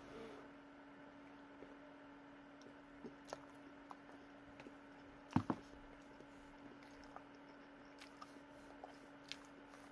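Faint chewing of a mouthful of food, with small wet mouth clicks over a steady low hum. A sharper double click comes a little past halfway.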